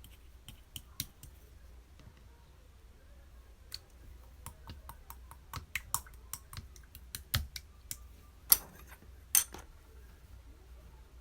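A string of irregular light clicks and taps, sparse at first and coming faster about halfway through, with two louder, sharper clicks near the end.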